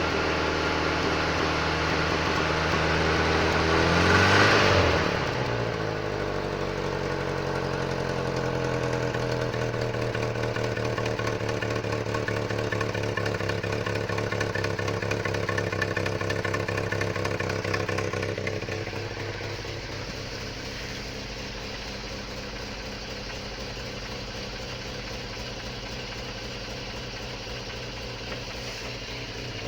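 Żuk van's S-21 four-cylinder petrol engine idling in the cold. About four seconds in it is revved briefly and the pitch falls back to idle, and at about eighteen seconds the idle settles quieter and stays steady.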